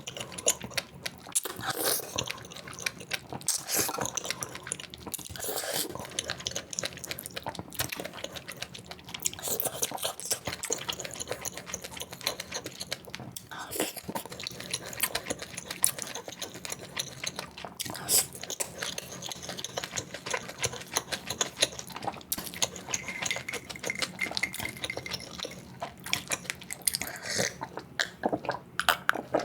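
Close-miked eating sounds, sped up: biting, chewing and mouth clicks in quick succession.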